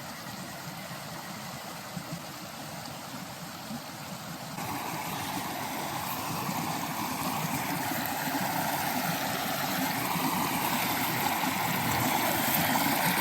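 Creek water running: a steady rushing that jumps louder about four and a half seconds in and then grows slowly louder, with a couple of faint knocks before the jump.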